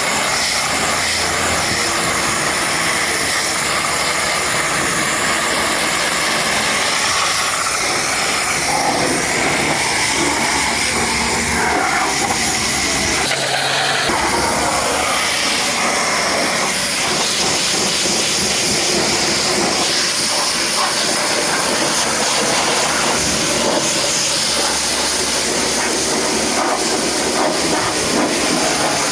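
High-pressure washer jet spraying water onto a muddy truck: a steady hiss and spatter of water.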